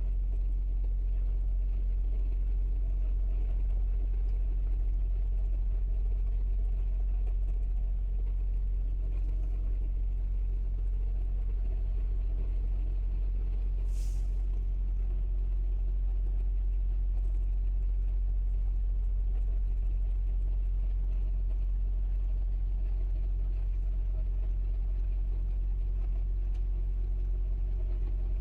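Truck engine running with a steady low rumble, and one short hiss about 14 seconds in.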